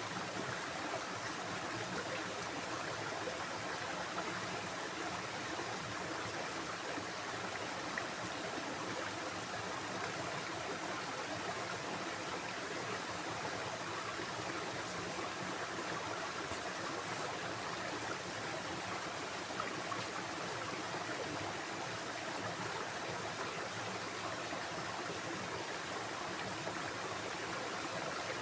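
A stream of water running steadily, an even, unbroken flow with no change in level.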